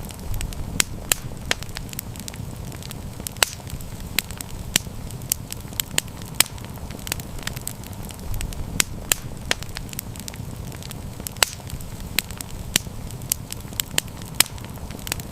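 Campfire burning with irregular sharp crackles and pops, several a second, over a low steady rumble of the flames.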